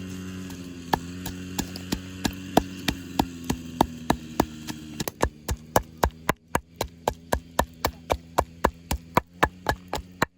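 Knife chopping on a wooden board in a steady run of sharp strokes, about three a second, becoming quicker and more even about halfway through. A steady low hum lies underneath.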